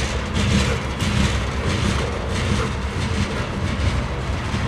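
Coal train's freight cars rolling slowly past: a steady low rumble of wheels on rail, with a regular faint clatter.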